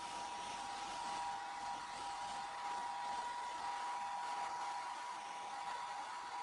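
Hair dryer running steadily to dry a cat's wet fur after a bath: an even rushing blow with a steady motor whine.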